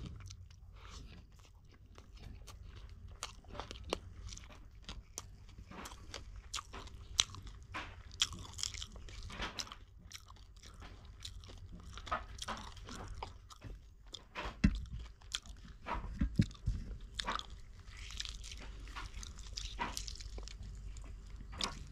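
A person chewing and biting into fish curry and rice close to the microphone: irregular crunches and wet mouth clicks, with a few louder bites.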